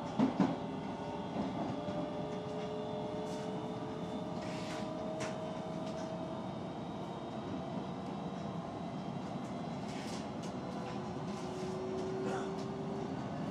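Osaka Metro 66 series electric train running, heard from inside the car: a steady rumble of wheels on rail, with the traction motors' whine rising slowly in pitch and a few sharp clicks.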